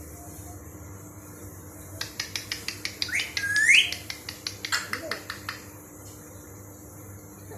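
Pet bird calling: a run of quick, sharp chirps about five a second, with a loud rising, swooping whistle in the middle, dying away after a few seconds.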